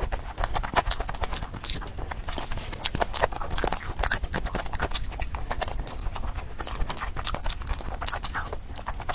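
Close-miked eating: rapid, irregular wet clicks, smacks and crunches of someone chewing rice and curry with crispy fried chilli, over a low steady hum.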